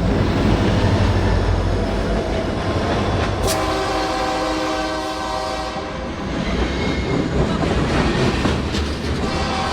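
A locomotive's multi-chime air horn sounds one chord for about two and a half seconds, a little over a third of the way in, over the steady low rumble of the passing train. A fainter horn chord begins near the end.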